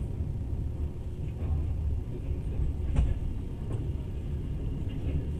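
Passenger train running at speed, a steady low rumble heard from inside the carriage, with one sharp knock about three seconds in.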